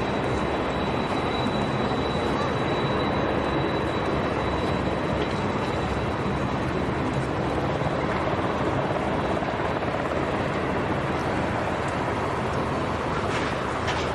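Aircraft engines running steadily, a continuous noise with a thin high whine over the first few seconds.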